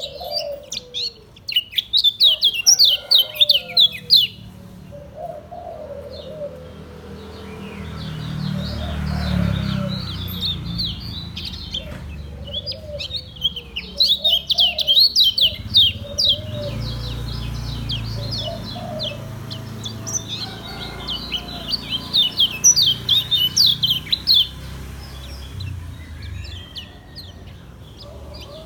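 Kecial kuning, a Lombok white-eye, singing in the fast chattering style called 'ngejos': rapid runs of high, sharp notes in bursts a second or two long, several times with short pauses between.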